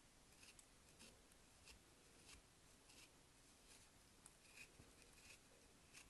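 Faint, light crackles and scratches about twice a second: soap bars' paper packaging being handled and unwrapped.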